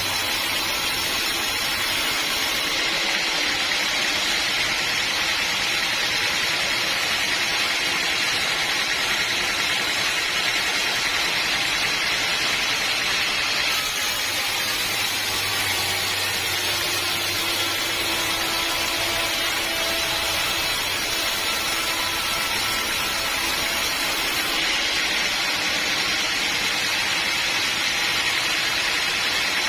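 Sawmill machinery running steadily, a continuous mechanical noise with a strong high hiss and no pauses.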